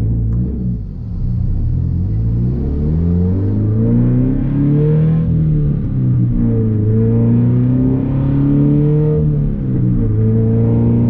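Scion FR-S flat-four engine, running with its muffler and resonator deleted, accelerating: the exhaust note climbs in pitch and drops back at each upshift, several times over.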